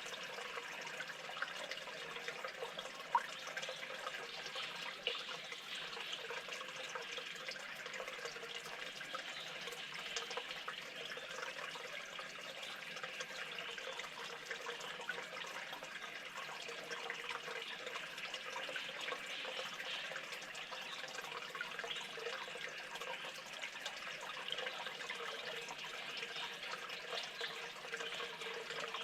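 Steady running water, an even unbroken rush with a single brief click about three seconds in.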